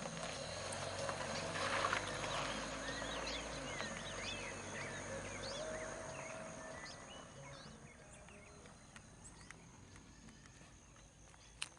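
Several wild birds chirping and calling at dawn in many short rising and falling notes, busiest in the first half and thinning out later. A low rumble swells and fades under them in the first half, and a single sharp click comes near the end.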